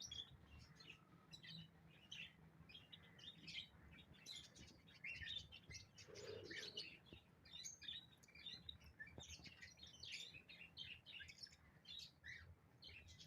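Small cage birds chirping softly, a steady stream of many short, high chirps from several birds at once.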